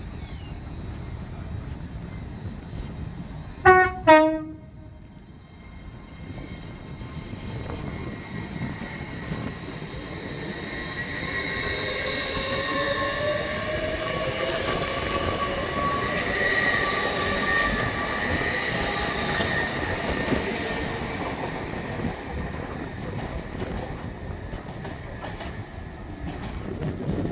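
Train horn sounding two short blasts, the second a lower note than the first. Then a train runs past, its rumble and whine building to a peak and fading away.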